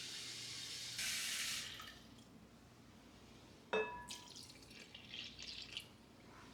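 Water running from a kitchen tap, briefly louder about a second in, then shut off near two seconds. Then a single clink with a short ring, like glass or dishware set down, followed by a few light drips and splashes.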